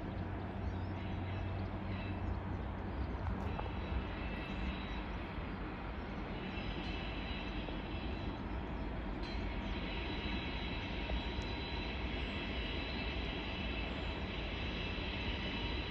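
Container freight train hauled by a Class 66 diesel locomotive running through, a steady rumble of wheels on rail with thin high ringing tones that grow stronger from about nine seconds in.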